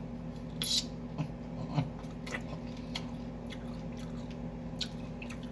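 Close-up eating sounds of someone chewing pizza: scattered wet mouth clicks and smacks, with a steady low hum underneath.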